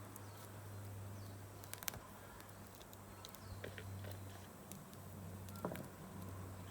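Wood campfire crackling: scattered sharp pops and snaps over a low steady hum, with the loudest pops about two seconds in and again near the end.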